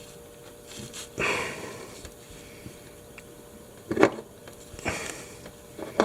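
A few short, noisy breaths or sniffs, with a sharp knock about four seconds in, over a faint steady hum.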